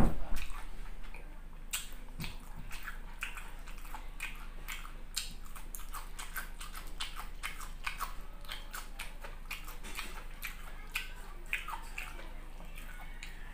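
Close-miked eating: wet chewing and mouth clicks, several a second, as a man eats a rice meal by hand. There is a louder bite at the very start.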